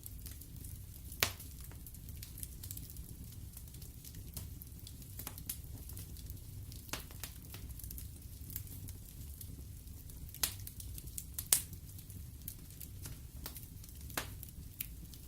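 Wood fire burning in a fireplace, crackling with scattered sharp pops and snaps over a low steady rumble. The loudest pops come about a second in and about two-thirds of the way through.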